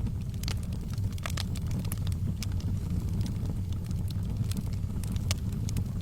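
Wood fire burning in a fireplace: a steady low rumble of flame with irregular sharp crackles and pops throughout.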